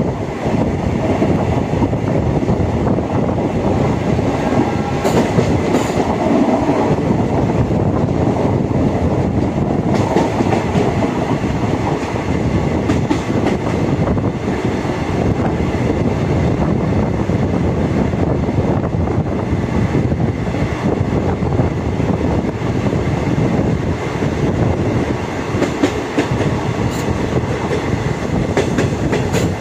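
Passenger train running along the track: a steady rumble of wheels on rail, with a few clicks scattered through it.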